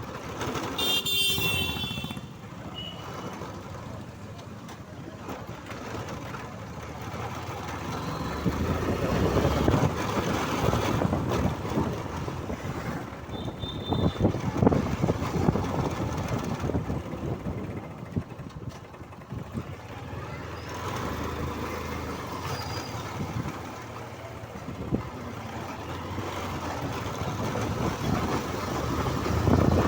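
Road and wind noise of a motorcycle ride through traffic, rising and falling, with a vehicle horn sounding briefly about a second in and short high beeps later on.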